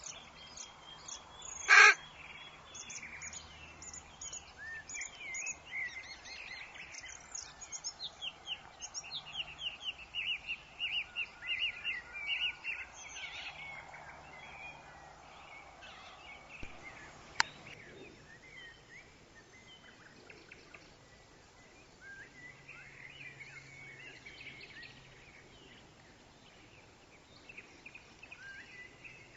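Woodland birds chirping and trilling over a soft, steady wind hiss, with a fast run of repeated notes in the middle. One short, much louder harsh call about two seconds in, and a single sharp click a little past halfway.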